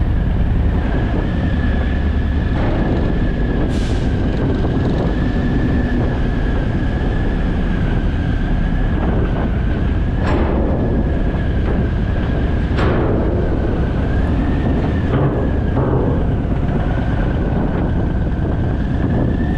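Car ferry's engines and machinery making a loud, steady low rumble, with a constant high whine over it and a few sharp metallic clanks.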